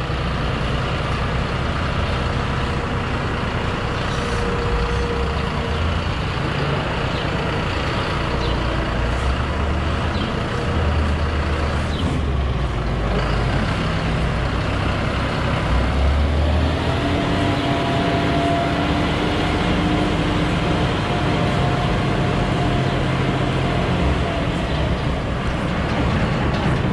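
Engine of a farm vehicle running steadily, with a faint steady whine joining it a little past halfway through.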